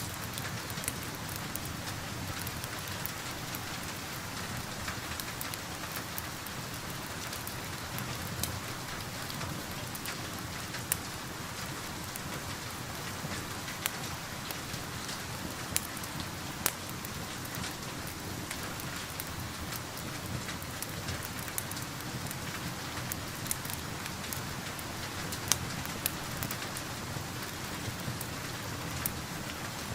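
Steady rain making a constant hiss, with scattered sharp pops and crackles from a wood fire, a few of them louder than the rest.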